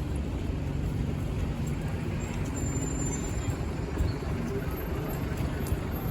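A bus engine running steadily, a low hum over general road noise.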